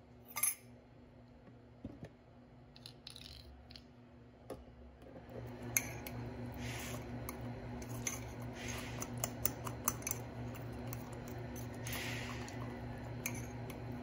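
Metal fork stirring a chocolate mug-cake batter in a ceramic mug, clinking and scraping against the mug again and again from about five seconds in. One sharp clink comes about half a second in.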